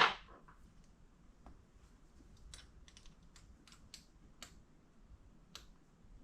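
A loud knock, then a run of about eight light, sharp, irregular clicks and taps, like small metal parts and tools being handled on a workbench.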